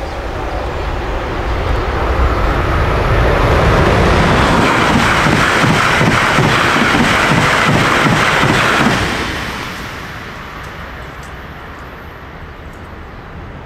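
Train passing through a level crossing: the rush of noise builds, holds loud for several seconds with rapid rhythmic clatter of wheels over the rails, then falls away about nine seconds in.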